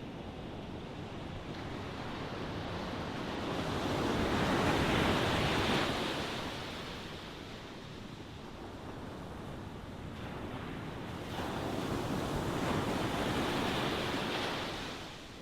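Ocean surf: a steady wash of waves that swells twice, with one wave building to a peak about five seconds in and a second about twelve seconds in, each falling away again.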